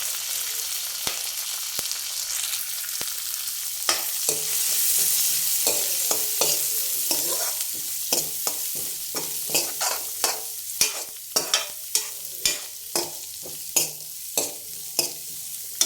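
Garlic and ginger-garlic paste frying in butter in a pan, sizzling steadily while a spoon stirs. In the second half the spoon knocks sharply against the pan about once or twice a second.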